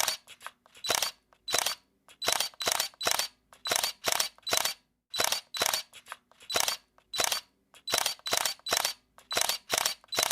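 Camera shutter clicking over and over, sharp clicks a few times a second at an uneven pace, some coming in quick pairs.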